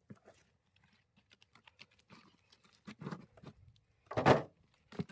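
Split firewood pieces knocking and clattering against each other as they are pulled out of the tyre and handled, with a scattering of light knocks and one louder wooden clunk about four seconds in.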